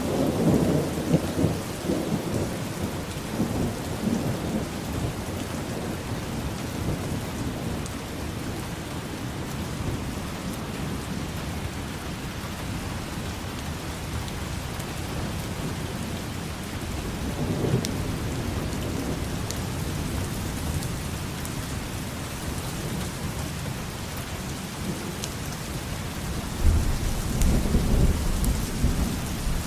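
Steady rain falling, with thunder rumbling three times: at the start, a little past the middle, and loudest near the end.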